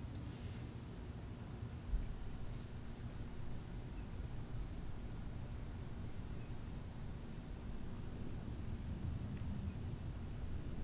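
Crickets chirping in a steady high trill, with pulsing phrases repeating every couple of seconds, over a low background rumble.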